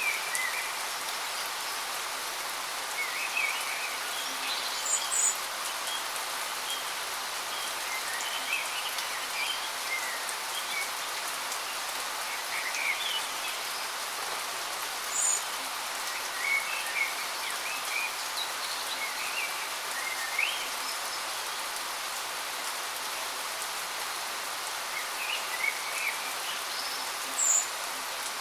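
Steady hiss of a waterfall's falling water, with birds chirping at irregular intervals over it, now and then a short high note standing out.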